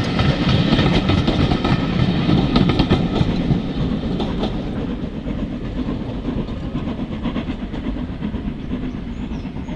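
A steam-hauled train running past, its carriage wheels clattering over the rail joints. The sound fades gradually as the train draws away.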